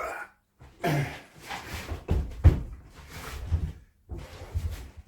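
Irregular wooden knocks, thumps and scraping as pieces of timber are handled and fitted together, with the loudest thump about halfway through.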